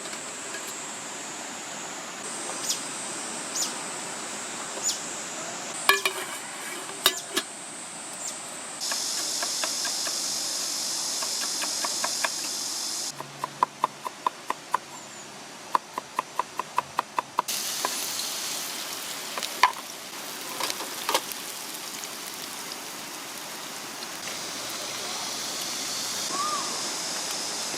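Rushing mountain stream water, a steady hiss that jumps in level and tone several times as shots change, with scattered sharp clicks and knocks and, around the middle, a quick run of evenly spaced clicks.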